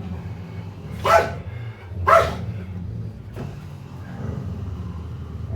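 A dog barking twice, about a second apart, over a steady low hum.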